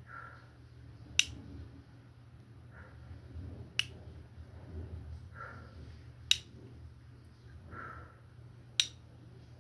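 Four sharp snaps, evenly spaced about two and a half seconds apart, with soft swishes between them over a low steady hum.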